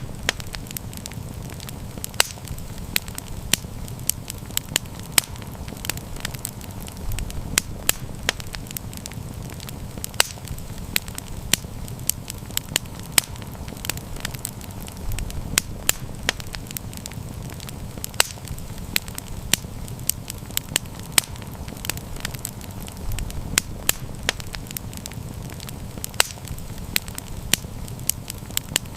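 Campfire crackling, with frequent sharp, irregular snaps and pops over a low steady rush of burning.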